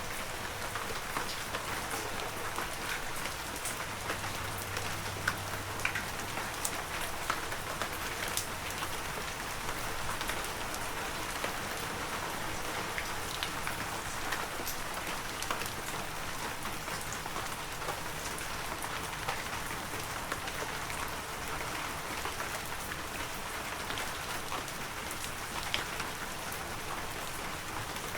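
Heavy rain falling steadily, with scattered sharp ticks of single drops striking close by.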